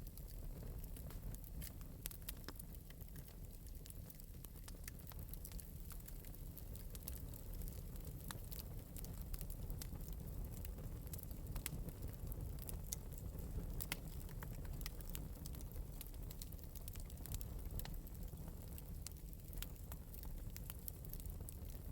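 Fire crackling in a fireplace: many small scattered pops and clicks over a steady low rumble of the flames.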